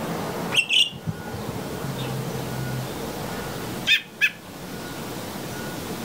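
Bird chirping: two pairs of short, sharp chirps about three seconds apart, over a steady background hiss.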